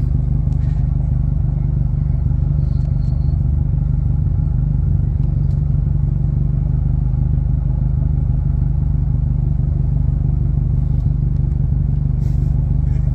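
Drift car's engine idling steadily, heard from inside the cabin while the car sits in line.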